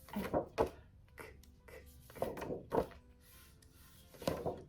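A woman's voice saying isolated phonics letter sounds in short, separate bursts, each sound repeated, with faint music underneath.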